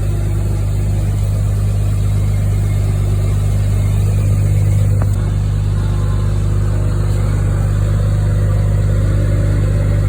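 Medium-duty wrecker's engine running steadily while it powers the winch pulling a stuck truck, swelling slightly about four to five seconds in, with a single click around five seconds.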